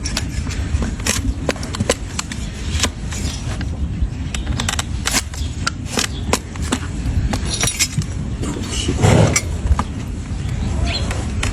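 Hand tools cutting and scraping a donkey's hoof horn: irregular sharp clicks and scrapes, a few a second, with a longer scrape about nine seconds in, over a steady low rumble.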